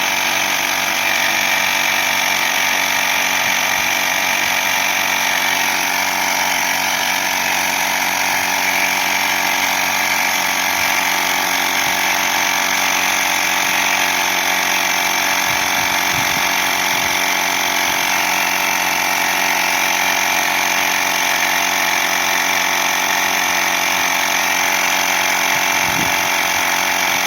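Portable electric air compressor running steadily, pumping up a bicycle tyre.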